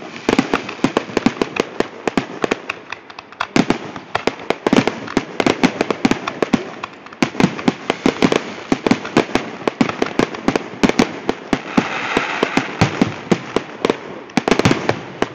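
Fireworks finale: a rapid, unbroken barrage of shell bursts, several bangs a second, overlapping with no pause.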